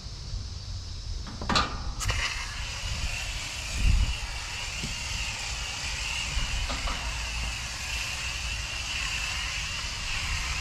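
Spray nozzle on a garden hose hissing steadily as water is sprayed to wash an air-conditioner condenser coil. It comes on with a sharp click about two seconds in, after a knock, and there is a low thump about four seconds in.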